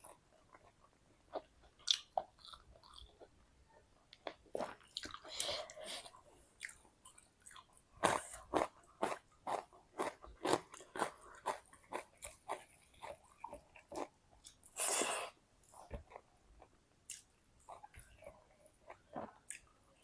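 Close-miked chewing and crunching of food, a steady run of short wet and crunchy bites, with one louder, longer crunchy burst about three-quarters of the way through.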